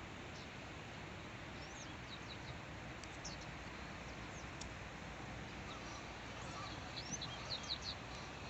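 Small birds chirping in short high calls, a few scattered at first and then several in quick succession about seven seconds in, over a steady even outdoor rush.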